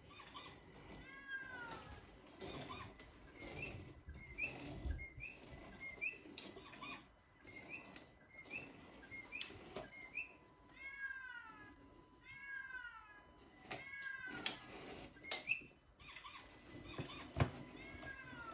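Devon Rex cats meowing in short arched calls, with a run of quick high chirps at about two a second, and scattered rustles and knocks.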